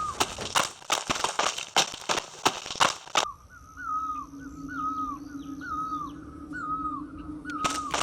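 Rapid clicks and knocks for about three seconds. Then, after an abrupt change, a bird's short call repeats about seven times over a steady hum, and the knocking returns near the end.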